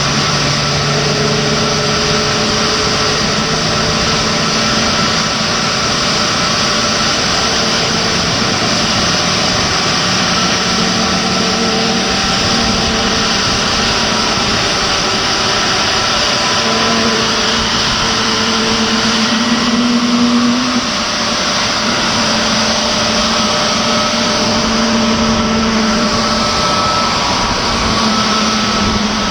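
Airbus A321neo turbine noise at idle: a steady, loud rushing hiss with several faint whining tones that drift slightly in pitch.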